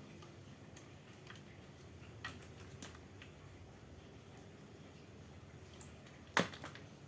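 A few faint clicks and taps over a low steady hum, with one sharper, louder knock about six and a half seconds in, followed at once by a smaller one.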